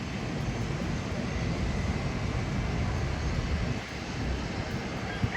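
Jet airliner engines running, a steady rumble with a faint high whine.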